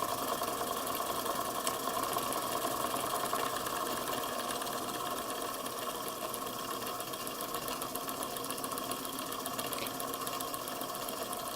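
Electrically heated Weeden Model 647 toy steam engine running with a fast, even mechanical clatter, easing off slightly as it is throttled down.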